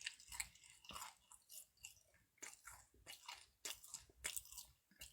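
Faint chewing of a mouthful of food, a string of short soft mouth clicks, irregular, a few each second.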